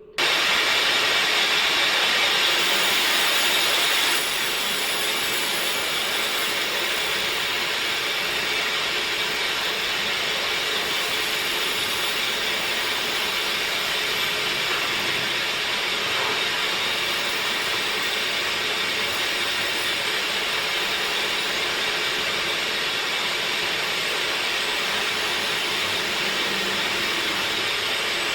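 Steady hissing noise of a power woodworking machine working teak wood. It starts suddenly and drops slightly in level about four seconds in.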